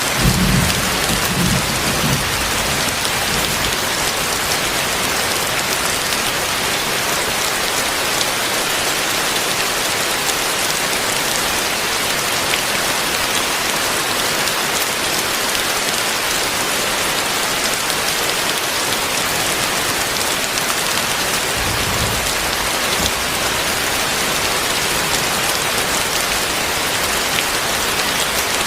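Heavy rain falling steadily, a dense even hiss of rain on surfaces. Brief low rumbles come near the start and again about 22 seconds in.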